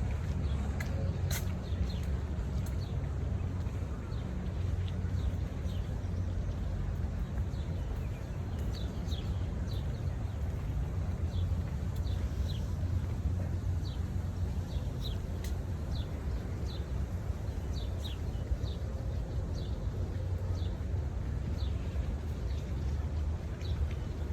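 Small birds chirping: short, high notes that slide downward, repeated every second or so, over a steady low rumble.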